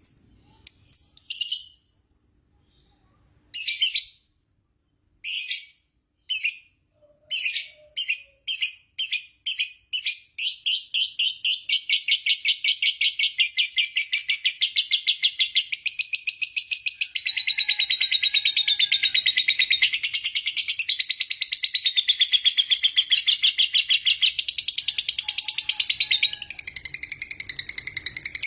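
Lovebird calling: short, separate, shrill call bursts that come closer and closer together, then from about ten seconds in one long unbroken rapid chatter, the 'ngekek panjang' long trill of a lovebird in full song.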